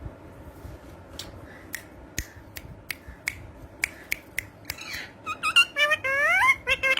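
A series of sharp clicks, roughly two or three a second, then from about five seconds in a parrot's loud whistled calls that glide up and then down in pitch, several in quick succession.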